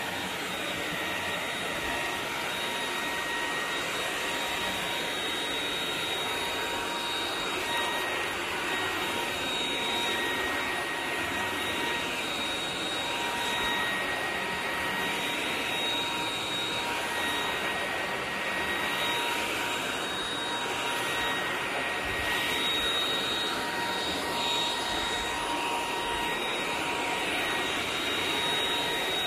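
Eureka RapidClean Pro cordless stick vacuum running steadily: a high-pitched motor whine over a rush of air.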